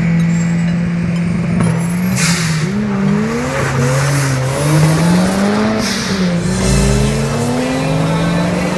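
Car engines revving, their pitch rising and falling, with a long rise as a car accelerates near the end. Two short bursts of noise come about two and six seconds in.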